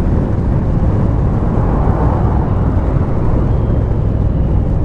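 Steady wind rush on the microphone over a Triumph Bonneville's engine running while riding along.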